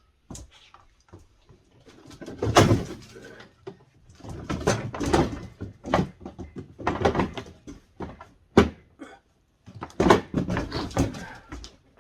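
Irregular knocks, clatter and scraping as refrigerator freezer parts are handled and pulled out, with several sharp bangs.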